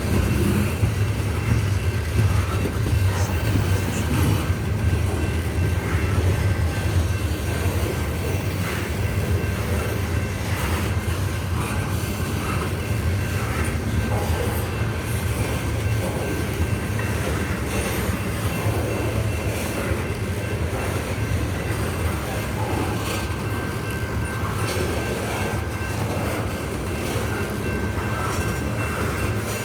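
CSX coal train's freight cars rolling past at close range, a steady loud rumble of wheels on rail with a faint, thin, steady high tone above it.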